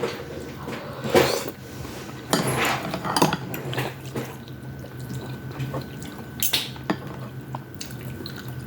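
Eating utensils knocking against a bowl and dishes in several separate clinks while a meal is eaten.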